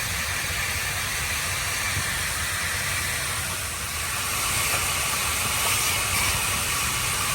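A car running, a steady low engine rumble under a broad, even hiss.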